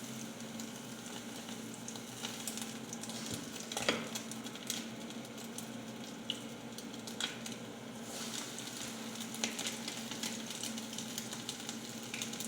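Chicken nuggets deep-frying in hot oil in a non-stick skillet: a steady sizzle with scattered crackles and pops, the loudest pop about four seconds in.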